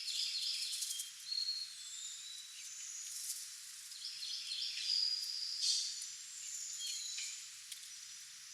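Several wild songbirds chirping and calling: short high-pitched chirps and whistled notes that overlap and come in scattered clusters.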